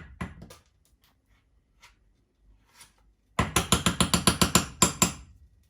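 A rapid run of sharp mechanical clicks, like a ratchet, lasting about two seconds past the middle at roughly six or seven a second, with a few fainter clicks at the very start.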